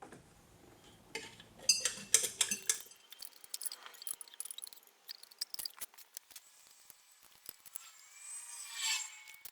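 Metal tools and parts clinking and clattering on a workbench, a few of the knocks ringing briefly, with a louder ringing clink near the end.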